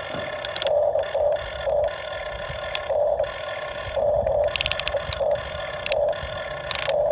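Small electric motors of a Huina RC excavator whining, with short repeated bursts of effort at uneven intervals and a few sharp clicks, as the stuck machine is worked back and forth.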